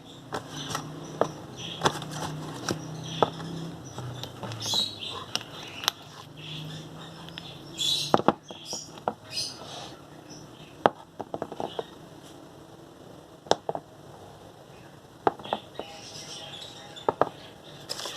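Handling and packing sounds: repeated sharp taps and clicks of objects being picked up and set down, with a few short bursts of rustling packaging.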